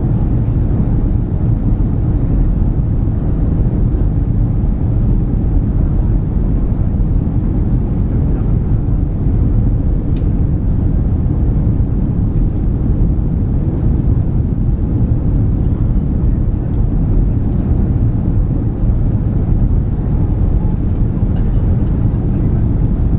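Steady low rumble of airliner cabin noise aboard an Airbus A340 on approach: engine and airflow noise heard inside the cabin, even and unbroken.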